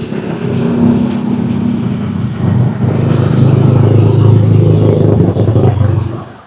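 A motor vehicle's engine running close by, building up, holding loud through the middle and fading near the end as it passes.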